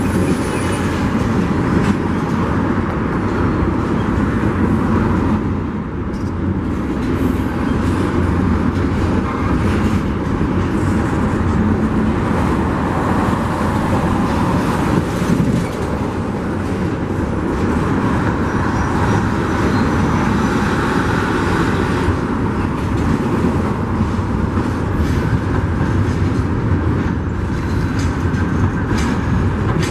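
Union Pacific freight train rolling past, a steady loud rumble of steel wheels on the rails.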